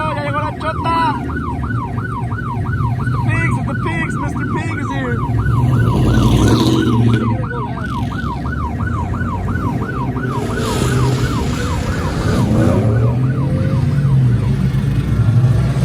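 Police siren yelping in fast up-and-down sweeps, about three a second, over the steady low running of vehicle engines. The siren fades out about ten seconds in, and an engine revs up near the end.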